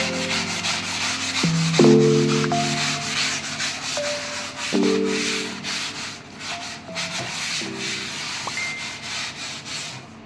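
Repeated scrubbing strokes on a kitchen cabinet surface, stopping near the end, over soft instrumental background music with mallet-like notes.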